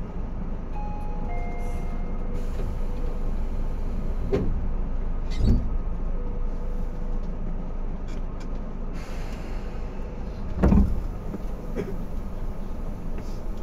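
Steady hum inside a Tobu 10030-series commuter train car, with a few faint steady tones over it and two heavy thumps, about five and a half and eleven seconds in.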